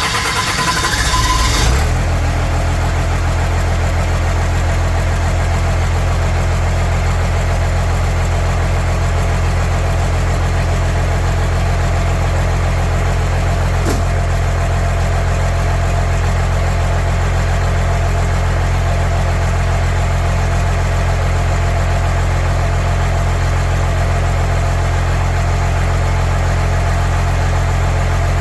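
1st-gen 12-valve Cummins 5.9 inline-six diesel running through a custom-built exhaust, with a rougher, noisier first couple of seconds and then a steady idle.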